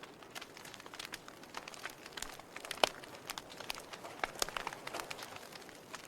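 Wood fire in a fireplace crackling: irregular sharp pops and snaps over a soft hiss, with one louder pop about three seconds in.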